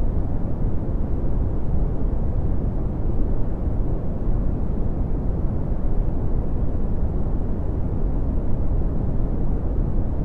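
Red (Brownian) noise: a steady, deep rumbling hiss, strongest in the bass and fading toward the treble, without change.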